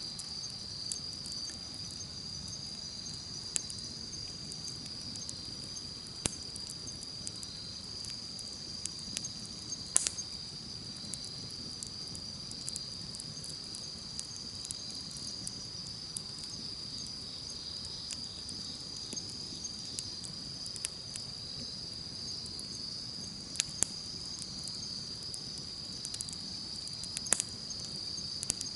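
Campfire crackling, with scattered sharp pops, the loudest about ten seconds in and a few more near the end, over a low rumble of the fire. Behind it, insects chirr in a steady high-pitched chorus.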